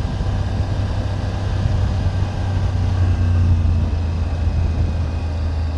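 2024 Triumph Tiger 900 GT Pro's three-cylinder engine running steadily under way, a low steady drone that swells slightly about halfway through.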